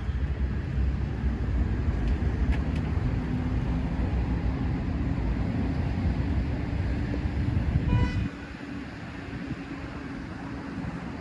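Street traffic: a vehicle's low engine and road rumble passing close, cutting off sharply about eight seconds in, with a brief high tone at that moment.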